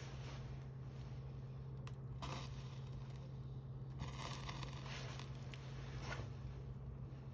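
Small wood fire in a garden fire pit, hissing and crackling in three short surges over a steady low hum.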